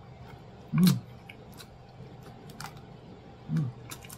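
A person chewing a bite of grilled balut, with scattered small clicks and crunches from the firm, hard part of the egg. Two short hummed 'mm's come about a second in and near the end.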